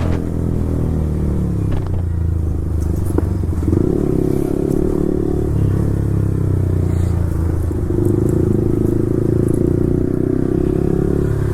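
Yamaha R15 V4's 155 cc single-cylinder engine through an Akrapovic full-system exhaust, running under way. Its pitch drops in the first second as the throttle eases off, then holds fairly steady with small rises and falls.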